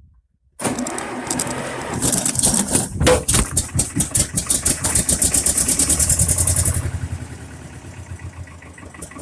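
Shenniu compact tractor's diesel engine cranked by its starter and firing up from cold, started on two-stroke gas wiped onto the oil bath air cleaner in place of starting fluid. It runs fast and loud with an even rapid beat, then settles to a quieter idle about seven seconds in.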